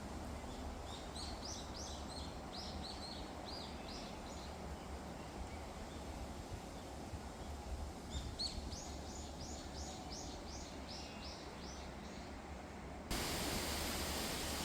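Strong wind blowing through forest trees with a steady rush, while a small songbird sings two phrases of quick, repeated high notes. About 13 seconds in, the background switches suddenly to a louder, even hiss.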